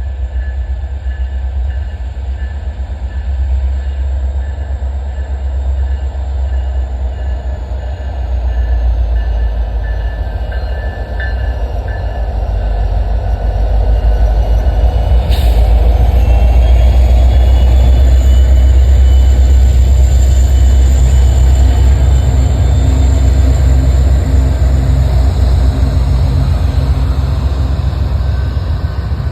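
Train passing close by: a steady low rumble that grows louder about halfway through, with faint high whining tones drifting above it and a single sharp click partway through.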